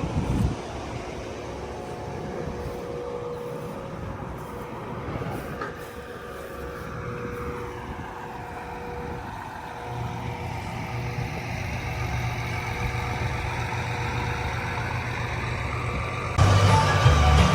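A vehicle engine running steadily. Music comes in suddenly near the end.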